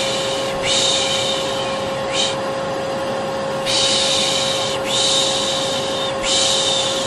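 Vacuum cleaner running steadily with a constant motor whine, overlaid with a person's repeated 'shh' shushing used to soothe a baby to sleep, each shush lasting a second or so with short breaks between.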